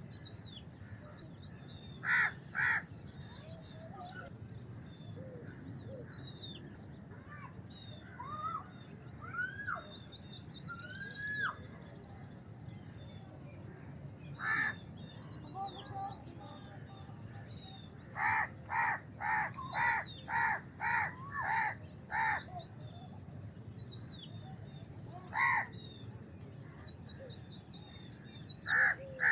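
House crow cawing: scattered harsh caws, then a quick run of about eight caws in a row past the middle. Small birds twitter steadily in the background.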